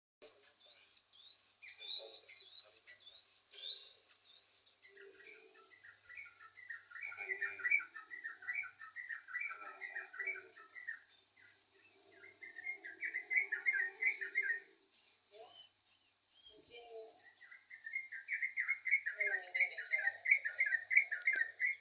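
Yellow-vented bulbul singing: a run of short rising notes in the first few seconds, then bursts of rapid, bubbly chattering song, several seconds each, with short pauses between.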